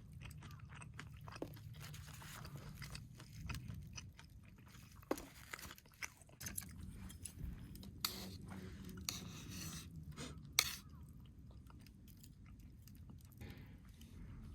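A person chewing crispy fried chicken, with irregular crunches and small clicks as the coating breaks.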